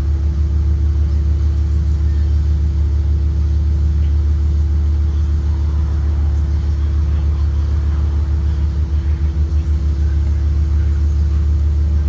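A 2023 Blue Bird Vision school bus under way, heard from inside: a steady low engine and road rumble with a constant hum over it, pulsing briefly about nine seconds in.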